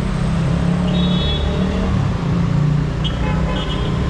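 Heavy city street traffic: engines of cars, buses and motorbikes running in a steady low rumble, with vehicle horns tooting briefly about a second in and again from about three seconds in.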